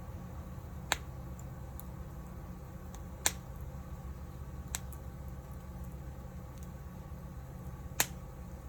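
Wood fire crackling: a few sharp pops from burning firewood, the loudest about a second in, just past three seconds and near the end, over a low steady rumble.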